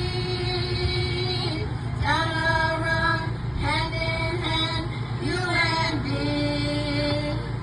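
A group of young women singing together in unison. A long held note gives way to three short phrases, each starting high and stepping down in pitch.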